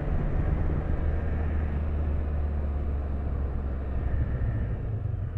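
Can-Am Spyder three-wheeled motorcycle's engine running steadily while riding, a low even hum.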